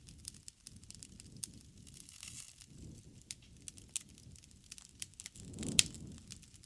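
Wood campfire crackling: scattered sharp pops and snaps over a low rush of burning, with a swell and a louder snap near the end.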